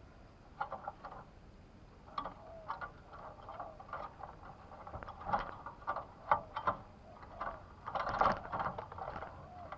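Irregular clicks, taps and rustles, loudest about two-thirds of the way through, with faint short low coos from spotted doves now and then.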